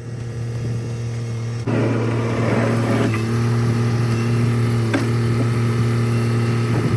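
Kubota tractor engine running steadily, growing louder about two seconds in, with a brief rush of noise and a few light knocks over it.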